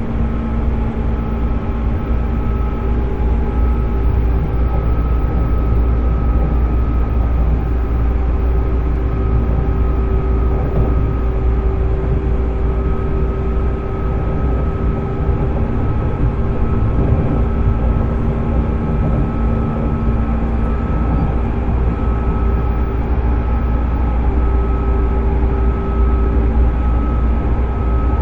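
Running sound of a JR 205-series electric train motor car with MT61 externally ventilated traction motors, heard on board: a heavy steady rail-and-wheel rumble under an even motor and gear whine whose pitch holds constant, the train cruising at a steady speed.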